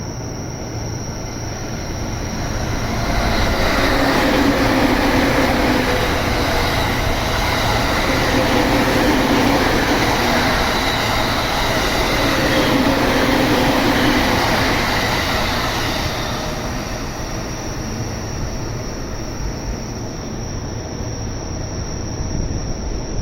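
Electric train passing through a station, building to its loudest a few seconds in, running loud for over ten seconds, then fading away. A steady high insect buzz is heard underneath.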